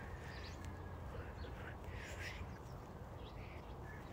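Faint bird calls, several short ones, the loudest about halfway through, over a low steady rumble.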